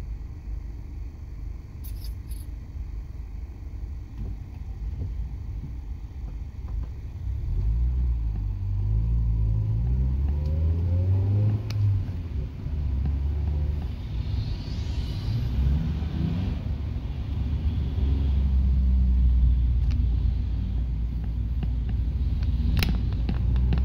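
1996 Acura Integra GS-R's 1.8-litre VTEC four-cylinder engine, heard from inside the cabin. It starts as a low steady rumble, then the car pulls away and the engine note rises through the gears, with a short dip at a shift, before it settles into steady cruising.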